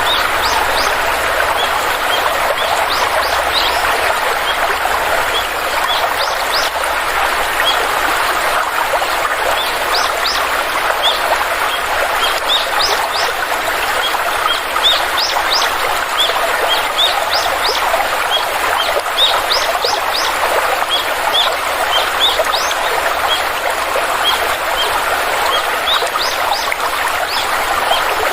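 Flowing stream rushing steadily, with small birds chirping over it in many short, high, quickly rising chirps.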